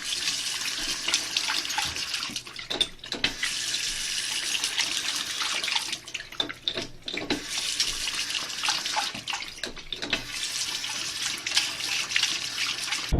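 Water running or spraying in a steady hiss, with a couple of brief breaks.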